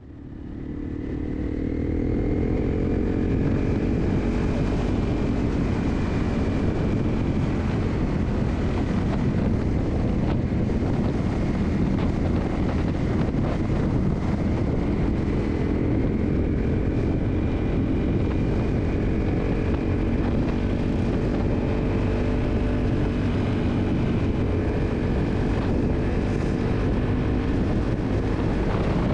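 Dual-sport motorcycle engine running at a steady cruising speed, with road and wind noise, fading in over the first two seconds.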